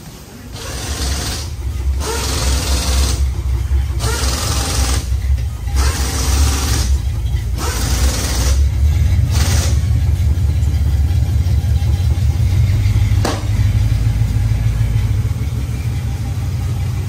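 Chevrolet Caprice engine running, revved in short surges every second or two for the first ten seconds, then settling into a steady low idle. A single sharp click about thirteen seconds in.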